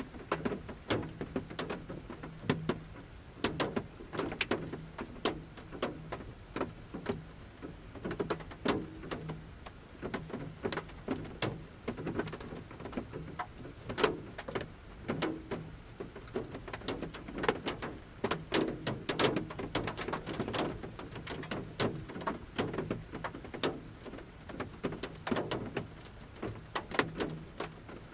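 Large raindrops falling from the forest canopy tap irregularly on the roof of a camper van, heard from inside. The taps are sharp and come several a second, some louder than others.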